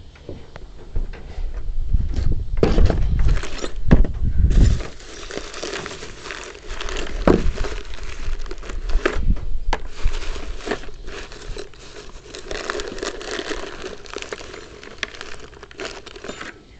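Hand carpentry on rough timber: a few heavy wooden thumps in the first few seconds, then a long stretch of scraping and rubbing with many scattered clicks and knocks.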